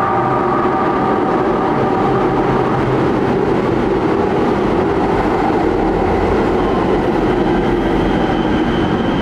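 Los Angeles Metro train running close by: a steady loud rumble of wheels on rails, with steady whining tones above it. A higher whine comes in about seven seconds in.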